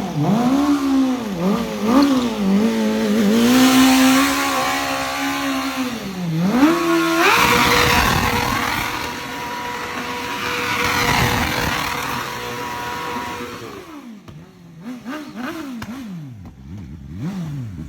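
Motorcycle engine revving up and down several times, then at about seven seconds jumping to a high steady pitch held for about six seconds. It then drops and gives a few quick rev blips near the end.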